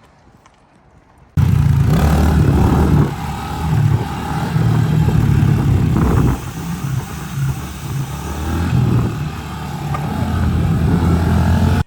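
Bone-stock Honda CRF110 pit bike's small single-cylinder four-stroke engine running under throttle while ridden, revs rising and falling. It cuts in suddenly about a second and a half in and is loud throughout.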